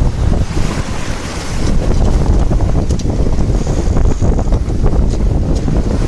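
Heavy wind buffeting the microphone on a sailboat under way, with the rush of waves and water along the hull.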